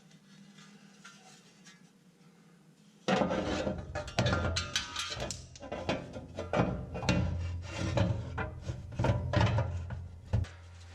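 Quiet for about three seconds, then a metal mulch-kit plate scraping, rubbing and knocking against the mower deck in irregular bursts as it is pushed up into place under the deck.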